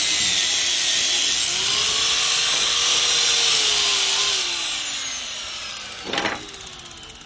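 Angle grinder fitted with a wire cup brush, scrubbing weld spots on rebar with a loud, steady hiss and motor whine. About halfway through it is let off and winds down, its pitch and loudness falling. A single knock comes about six seconds in.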